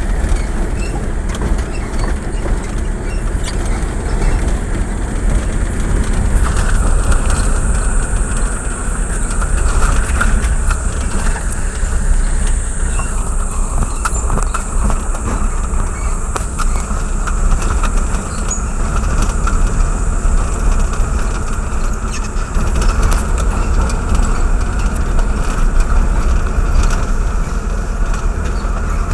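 Steady running noise of a moving road vehicle, engine and road rumble.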